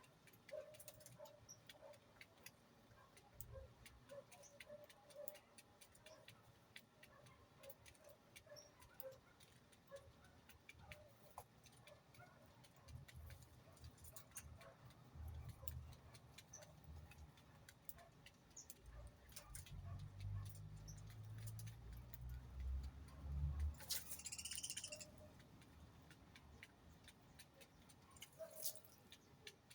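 Faint bird sounds: scattered soft calls and small clicks, with a brief high chirp about 24 seconds in, over a low rumble in the middle.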